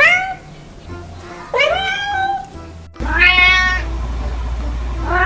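Kittens meowing: four separate meows, short and high-pitched, a second or so apart, over quiet background music.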